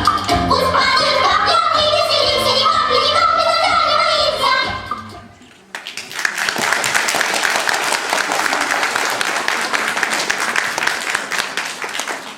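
A song with singing plays and fades out about five seconds in. An audience then claps, the applause tapering off near the end.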